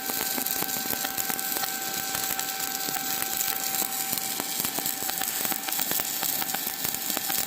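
Shielded metal arc (stick) welding with a 3.25 mm basic E7018 electrode at about 100–110 A on a new ESAB 180i Pro inverter welder. The arc gives a steady, dense frying crackle, with a faint steady whine running under it.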